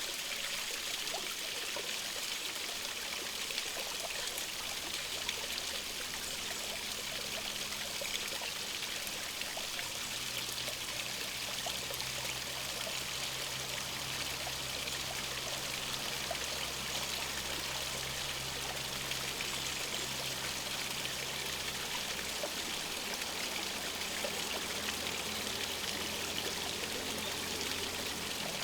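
Water running steadily in a small stream, an even trickling rush. A faint low hum sets in about a third of the way through.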